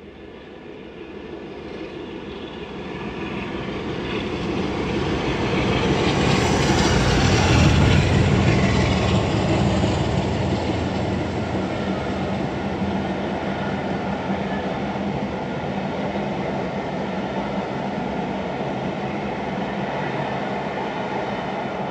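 The Fellsman steam-hauled excursion train passing. The sound builds to its loudest about seven or eight seconds in as the front of the train goes by, then the coaches roll past steadily.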